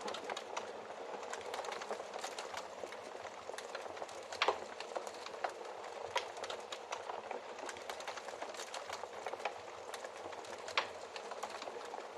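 Wood fire crackling steadily with many small snaps, and a louder pop about four and a half seconds in and another near the end.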